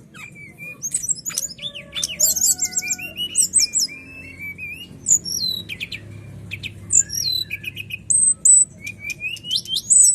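Brown-chested jungle flycatcher (sikatan rimba dada coklat) singing a fast, varied song of clear whistles, sweeping notes and rapid trills, phrase after phrase without a break. A faint steady low hum lies beneath.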